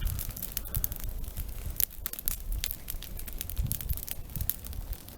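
Large campfire of spruce branches crackling, with sharp irregular pops as the burning spruce throws sparks, over a low rumble.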